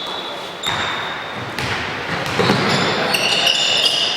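Basketball play on an indoor court: a few thuds of the ball bouncing, then from about three seconds in a run of short, high sneaker squeaks on the floor.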